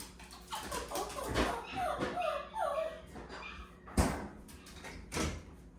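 Dog whining in a run of four or five short, high whimpers that slide in pitch, amid scuffling and knocks, with one sharp knock about four seconds in. The whining is anxious.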